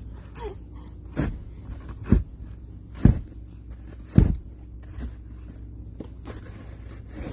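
Four heavy, muffled thuds in snow, about a second apart.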